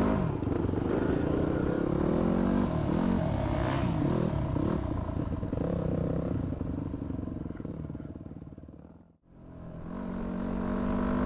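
Four-stroke single-cylinder dirt bike engine, a Yamaha WR250F, running under way and revving, its pitch rising and falling with throttle and gear changes. About nine seconds in the sound fades out to silence, then fades back in.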